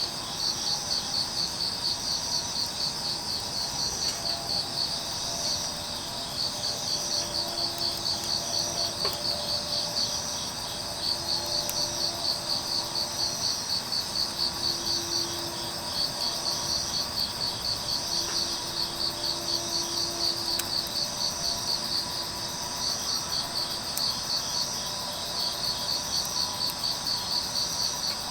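Grass insects, crickets, chirping in rapid pulsing trains a few seconds long with short pauses between them, over faint background noise.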